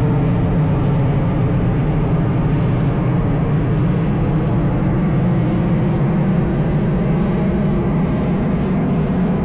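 Aircraft engines droning steadily and loudly, a deep even hum with no change in pitch.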